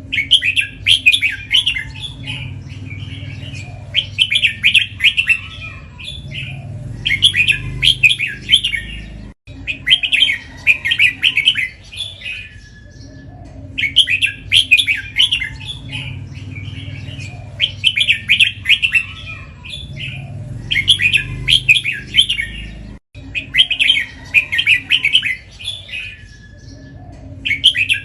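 Red-whiskered bulbul singing, its bright chattering phrase repeated over and over with short pauses, a phrase about every two seconds, in the doubled song Thai bulbul keepers prize. A steady low hum runs underneath.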